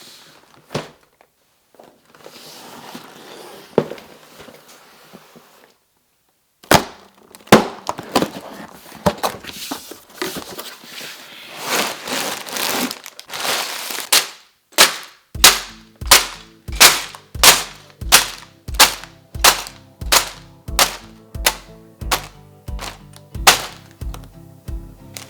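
A LEGO set box being opened: sharp cardboard clicks and knocks with rustling. About two-thirds of the way through, background music with a steady beat of about two beats a second comes in.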